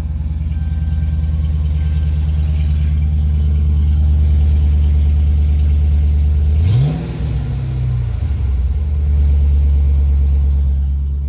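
Dodge Charger R/T's 5.7-litre Hemi V8 idling through hollowed-out catalytic converters, an H-pipe and two turbo mufflers. About two-thirds of the way in it is revved once, briefly, and drops back to idle.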